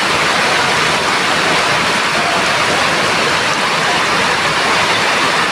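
Steady, loud rush of water in heavy rainfall, unbroken throughout.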